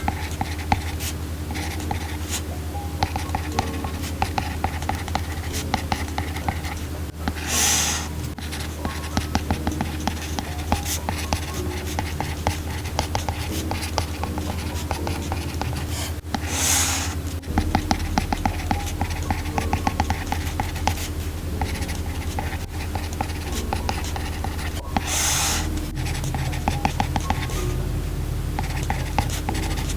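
Apple Pencil tip tapping and scratching on an iPad Pro screen in quick small strokes, over soft background music. Three brief hissing swishes come several seconds apart.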